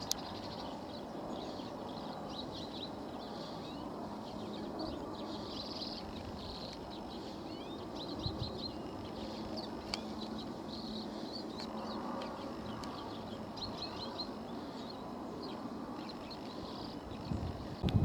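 A flock of common redpolls giving short, quick twittering chirps again and again, over a steady low background rumble.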